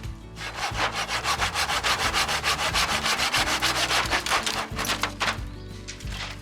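A saw cutting through wood in quick, even, repeated strokes, easing off near the end.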